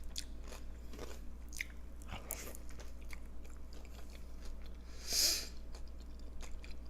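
A person chewing a mouthful of carne asada burrito close to the microphone, with small wet mouth clicks. A short hiss about five seconds in, over a steady low hum.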